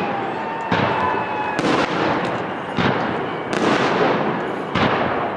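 Aerial fireworks shells bursting overhead: about five loud bangs roughly a second apart, each rolling off in a long echo. A thin whistle runs under the first second or so.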